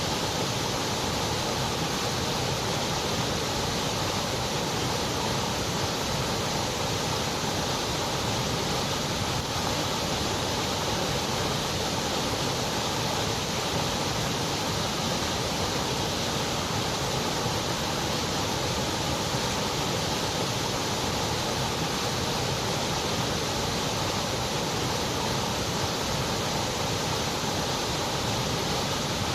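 Continuous white noise: an even, unchanging hiss spread across low to high pitches, a little weaker in the very highest treble.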